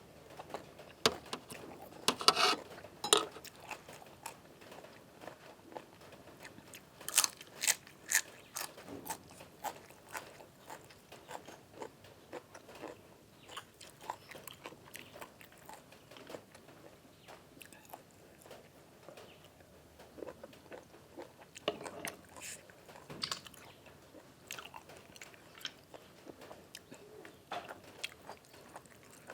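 A person biting and chewing crunchy food close to the microphone. Bouts of sharp crunches come a few times, with quieter wet chewing between them.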